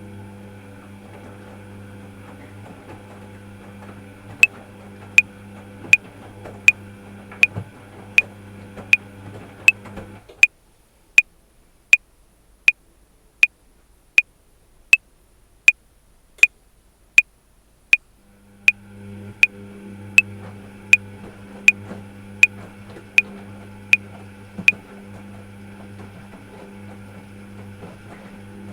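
Metronome clicking at 80 bpm, 28 sharp clicks that count four bars of 7/4, over the steady low hum of a running washing machine. The machine's hum drops out for about eight seconds in the middle while the clicks go on alone.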